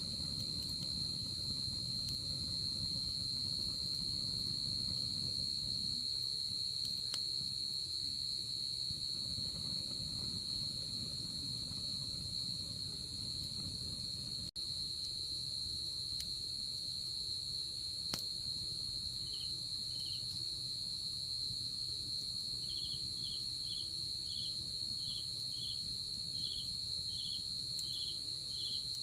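Night insects calling: a steady, unbroken high trill throughout, joined about three-quarters of the way in by a second insect chirping about twice a second. A low, even hiss lies underneath, and the sound drops out for an instant halfway through.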